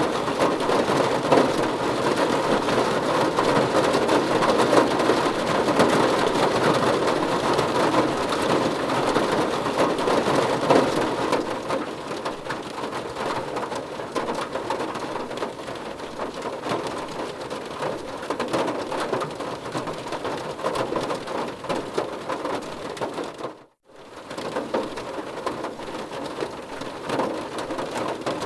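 Heavy rain falling steadily in a dense, even patter that eases slightly partway through. About three-quarters of the way in, the sound cuts out abruptly for about half a second, then resumes.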